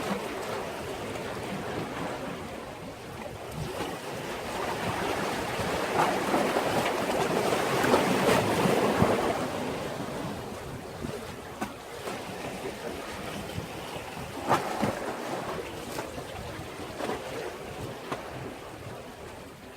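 Sea waves washing against a breakwater: one surge swells up and breaks about halfway through, then ebbs, with a few short sharp splashes after it.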